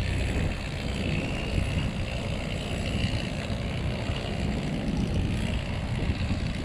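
Sailboat's engine running steadily at low speed, motoring slowly.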